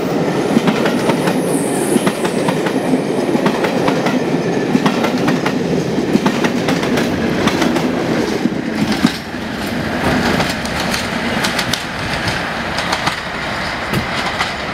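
Diesel-hauled passenger train passing close by: coach wheels clattering over the rail joints with many sharp clicks, then the rear diesel locomotive going by. About nine seconds in the sound cuts to a quieter, steadier train noise as another diesel-hauled train approaches.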